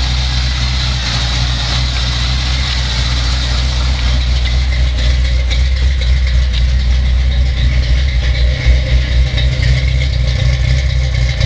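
Chevy 350 small-block V8 idling steadily while warming up after a cold start, heard through Flowmaster mufflers on a 3-inch exhaust. Its exhaust note grows louder and choppier in the second half as the microphone nears the rear of the car.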